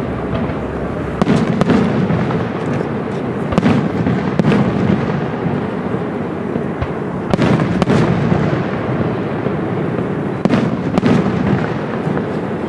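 Aerial firework shells bursting: sharp bangs every few seconds, often two in quick succession, over a steady rumbling noise that fills the gaps between them.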